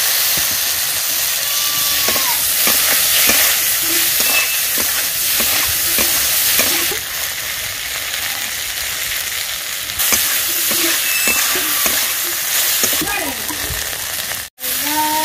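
Okra pieces sizzling in hot oil in an iron kadai, stirred with a metal spatula that scrapes and knocks against the pan. The sound cuts out for an instant near the end.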